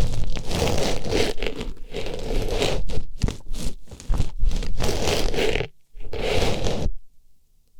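Artificial rose rubbed and pushed into an ear, ASMR ear-cleaning style: a run of close, scratchy rustling scrapes with short breaks, going quiet about seven seconds in.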